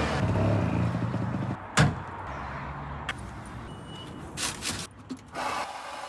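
A motor vehicle's engine running and fading away over the first second or two, then a single sharp knock, followed by a few short, noisy scuffs near the end.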